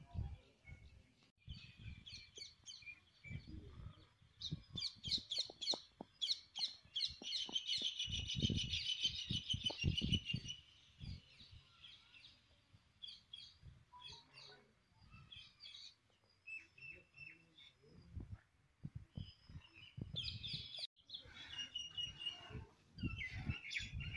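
Birds chirping and calling, many short high calls that are densest from about four seconds in to about eleven seconds, with irregular low bumps and rumbles underneath.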